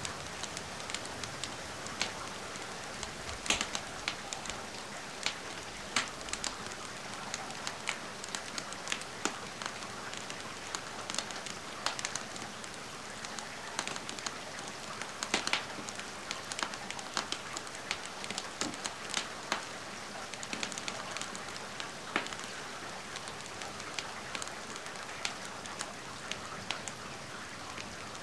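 Steady rain hiss mixed with a wood fire crackling, with sharp irregular pops scattered over the even rush of the rain.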